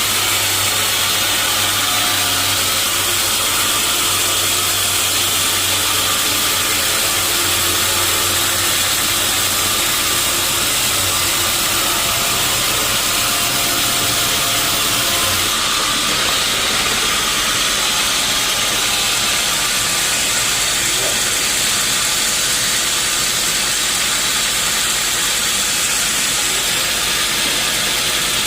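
Sawmill saw running on teak wood with a steady, loud hiss. A low hum under it drops away about halfway through.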